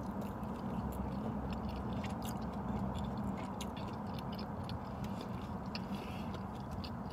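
A person chewing a bite of deep-fried veggie egg roll with mouth noises and small crunching clicks, over a steady low hum inside a parked car.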